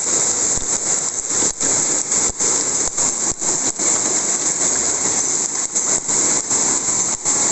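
Hailstorm downpour beating down hard, a dense steady hiss that flickers quickly with the impacts.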